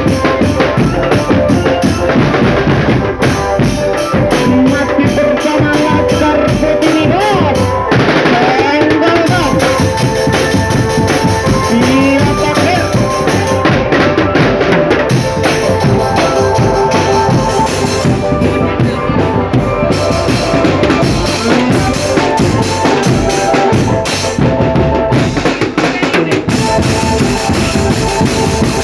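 Marching drum band playing: snare and bass drums beating continuously, with held melody notes over them.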